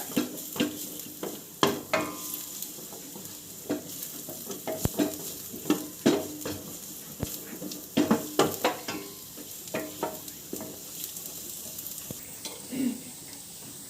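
Chopped garlic sizzling in butter in a pan as it browns, with a steady hiss and a utensil stirring, scraping and knocking against the pan now and then.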